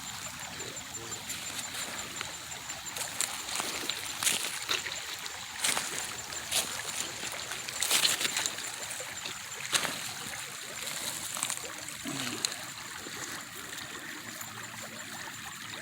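Shallow creek water trickling steadily, with scattered sharp splashes and knocks, the loudest about eight seconds in.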